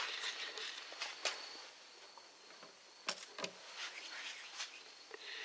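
A few faint knocks and clicks, with an insect's steady high trill in the background.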